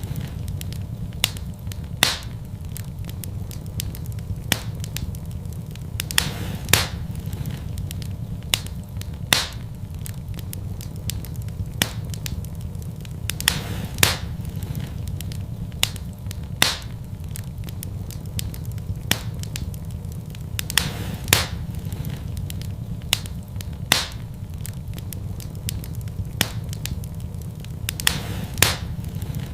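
Fire in a fireplace crackling: sharp, irregular pops, some loud, roughly every second or two, over a steady low rumble.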